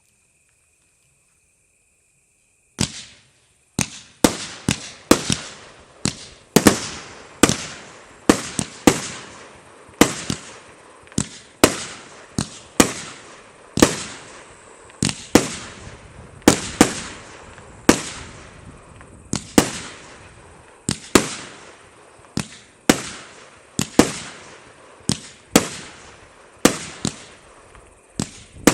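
Aerial fireworks going off in a long string of sharp bangs, a little more than one a second, each trailing off in an echo. The bangs begin about three seconds in, after near silence.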